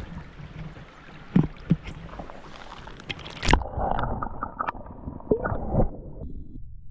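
Water sloshing and gurgling around a kayak, with several sharp knocks against the hull over a low steady rumble; near the end the sloshing stops and only the rumble remains.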